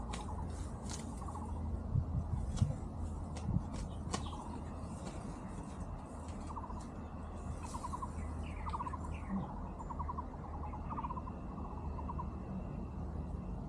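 Short trilling calls from a small animal, repeated about a dozen times, over a steady low hum, with a few sharp clicks in the first few seconds.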